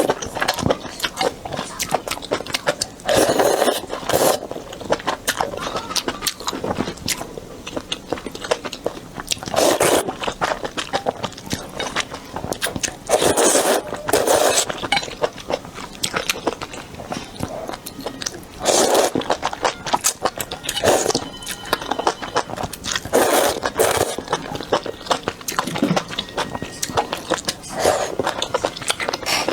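Close-miked eating of spicy snail noodles and malatang noodle soup: chewing and crunching with small wet clicks, broken by louder noisy bursts every few seconds.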